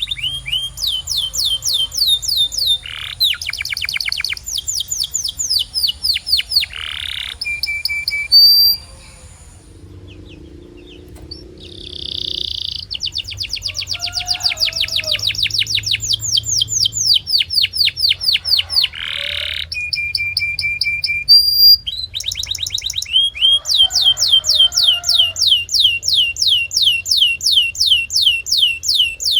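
Domestic canary singing long, fast trills of repeated high notes, about six a second. It breaks off briefly about nine seconds in and starts again a few seconds later.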